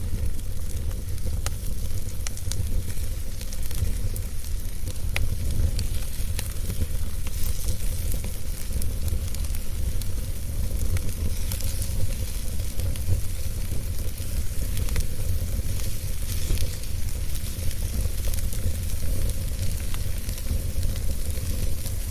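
Fire burning in a fireplace, crackling, with scattered sharp pops over a steady hiss and a low rumble.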